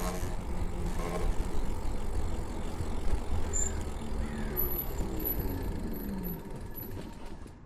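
Wind and road rush from riding the Lyric Graffiti X electric bike, with a faint whine that falls in pitch midway. The noise dies down near the end as the bike slows.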